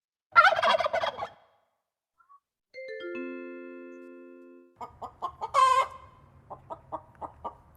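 Recorded farm-bird calls: a domestic turkey gobbling briefly, then a short run of ringing chime notes stepping down in pitch. A hen then clucks in a quick series, with one louder squawk.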